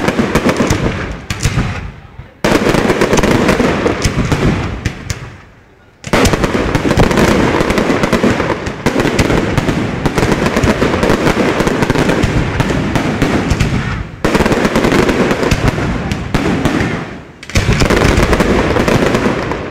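Fireworks display: aerial shells bursting in a dense, continuous barrage, with crackling stars. The bangs come in waves that break in sharply every few seconds and tail off, fading near the end.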